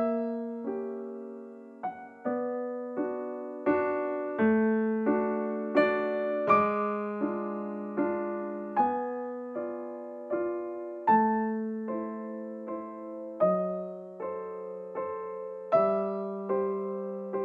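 Background music: a slow, gentle piano piece, with chords struck about every three quarters of a second, each fading away before the next.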